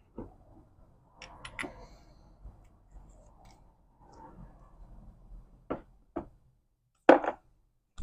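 Hand handling of small metal transmission parts and tools: scattered light clicks and rustling, then a louder single knock about seven seconds in.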